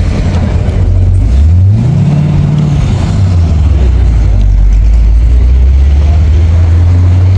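Car engine revving once, its pitch rising and then falling back about three seconds in, then running steadily at a low, even pitch.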